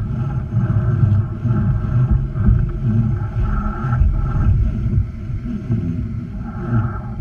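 Low rumbling wind noise buffeting the microphone aboard a sailboat under way, with the boat's water noise underneath.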